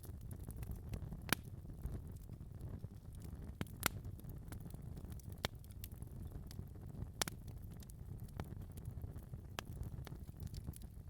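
Wood fire crackling in a fireplace: sharp, separate pops every second or two over a steady low rumble.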